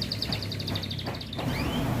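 White-eye (pleci) singing a rapid trill of high notes, about fourteen a second for well over a second, then a short upward chirp, over the steady low rumble of road traffic.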